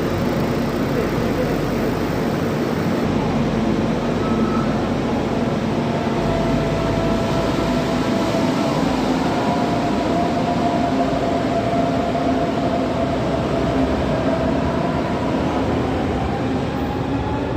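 Moving passenger train running steadily, an even rumble with faint whining tones that rise slightly in pitch near the end.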